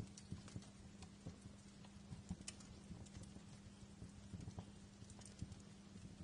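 Wood fire crackling faintly, with frequent irregular pops and snaps, over a steady low hum.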